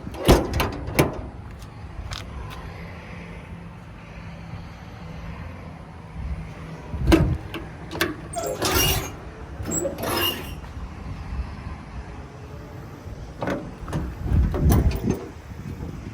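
A series of short sharp knocks and clatters in clusters: about a second in, again between about seven and ten seconds, and near the end, over a steady low hum.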